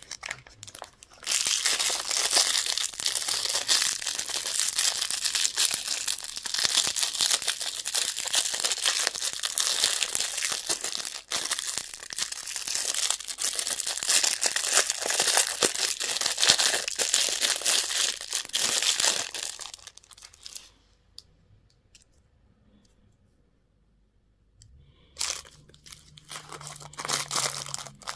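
Candy wrappers being crinkled and torn open in a continuous crackling run that stops about two-thirds of the way through. After a few seconds of near silence the crinkling starts again near the end.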